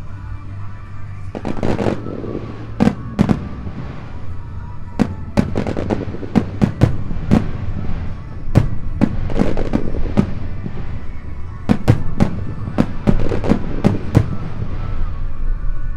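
Aerial firework shells bursting in a rapid barrage of about two dozen sharp bangs, several a second at times. They start about a second and a half in and die away shortly before the end, with music playing underneath.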